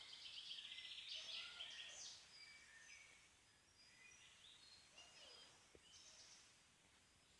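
Several songbirds chirping and singing faintly, with a rapid trill in the first couple of seconds, then scattered shorter calls.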